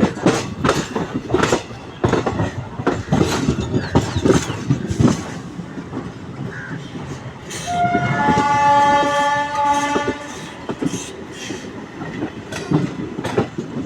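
Train wheels clattering over rail joints, with a train horn sounding for about two and a half seconds just past the middle, a chord of several steady tones.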